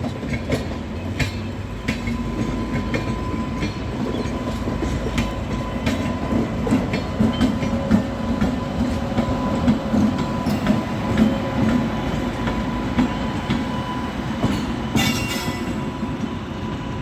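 Rajdhani Express coaches passing at speed through a station without stopping: a steady rumble with wheels clacking over rail joints and a thin, steady whine. A brief hiss comes near the end.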